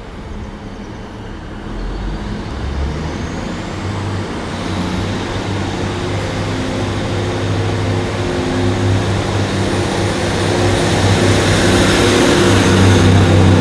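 A two-car-pair Class 150 Sprinter diesel multiple unit pulling into the platform, its diesel engines running and growing louder as it approaches. A high whine rises in pitch early on and then holds steady.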